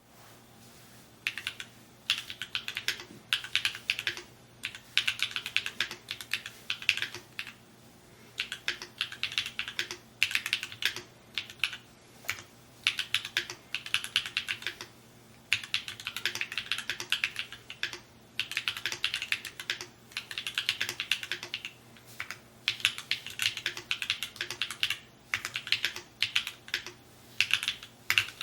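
Typing on a Mode Encore 2 custom mechanical keyboard: fast runs of key strikes in bursts of a second or two, broken by short pauses between words and phrases.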